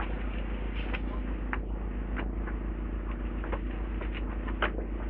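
Demolition excavator's diesel engine running steadily, with scattered knocks and clatter of debris, one sharper knock near the end.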